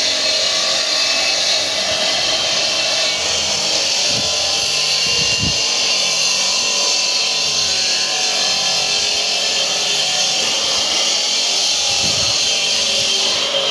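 Power stone-cutting saw running steadily, its blade grinding through stone with a high, even whine.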